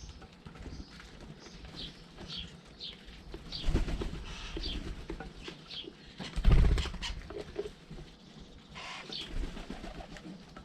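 Garden birds at a feeder chirping in short repeated calls, with two loud low thumps, about four and six and a half seconds in.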